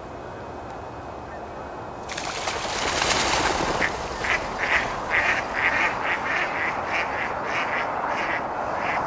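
Mallards quacking in a rapid series, about three calls a second, starting about four seconds in. A broad rushing noise comes up about two seconds in, just before the calls.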